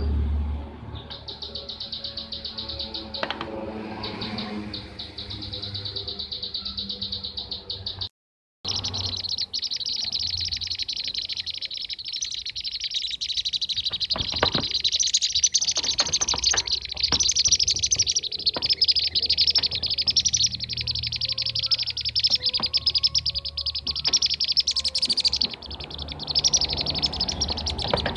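Recorded chirping calls of kirik-kirik (bee-eaters), played as a lure for trapping the birds: a dense, rapid, high-pitched chatter that cuts out completely for about half a second around eight seconds in.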